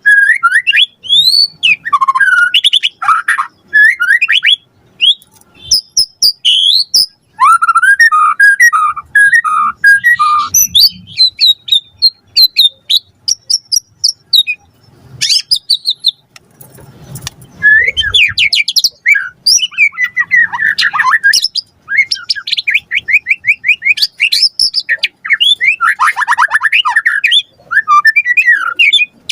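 White-rumped shama singing loudly in a rich, varied song of whistled phrases, fast glides, repeated-note series and rapid trills, broken by short pauses, with mimicked notes of other birds worked in.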